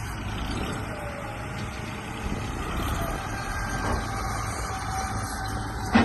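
Small electric drive motors of a radio-controlled bulldozer whining and changing pitch over a low rumble, with a sharp knock near the end.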